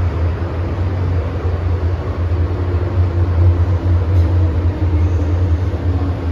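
MTR M-train electric multiple unit running between stations, heard from inside the car: a steady, loud low rumble of wheels on rail with a noisy hiss above and faint motor tones.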